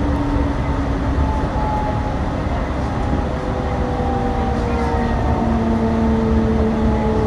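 A Yurikamome rubber-tyred automated guideway train running: a steady low rumble, with the electric drive's whine slowly sliding in pitch.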